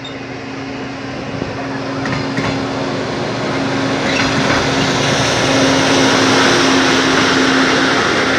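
Train approaching on the track, growing steadily louder: a steady engine hum with rolling noise that builds up over the last half.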